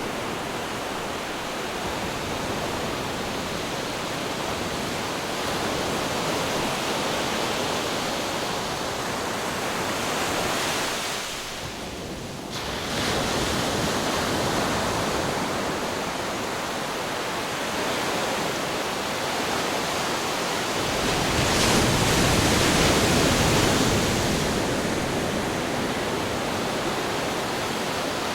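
Ocean waves breaking on rocks: a continuous wash of surf that eases briefly about twelve seconds in, then a heavier wave crashes about three-quarters of the way through.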